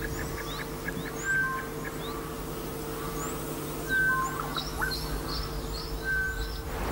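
Birds calling: short whistled notes repeated every second or two, quick rising chirps higher up, and a burst of rapid high calls near the end, over a steady low drone.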